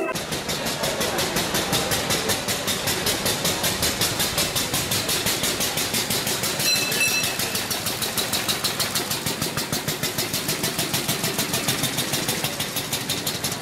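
Single-cylinder engine of a replica 1886 Benz Motorwagen running with a rapid, even beat of firing strokes. A brief high tone sounds about seven seconds in.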